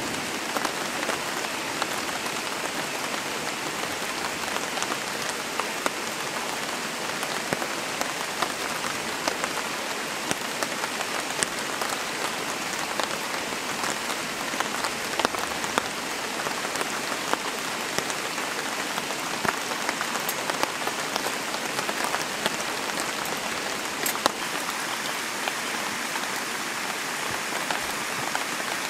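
Steady rain falling in a forest, a constant hiss with many close drops tapping irregularly.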